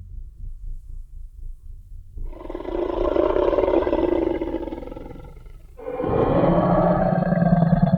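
Tyrannosaurus rex roar sound effect: after about two seconds of faint low rumble, one long roar swells and fades out, and a second, deeper roar starts about six seconds in.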